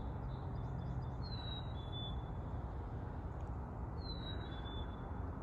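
A bird repeating a clear two-note whistle, a higher note sliding down followed by a lower steady note, twice about three seconds apart, over a steady low rumble.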